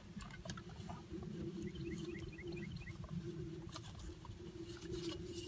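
Faint steady low hum with a short run of about seven quick rising chirps from a small bird, about two seconds in.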